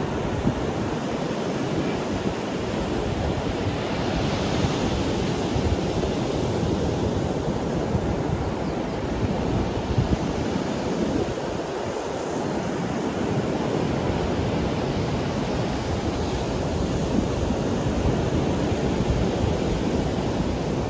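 Ocean waves breaking and washing up a sandy beach, a steady dense rush of surf. The hiss of a breaking wave brightens about four seconds in.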